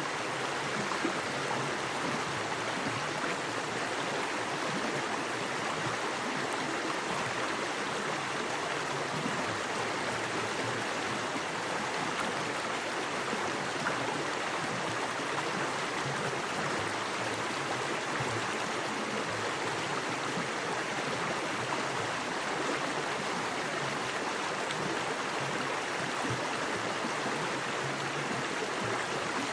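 Small creek with fast water rushing over rocks, a steady, even splashing rush.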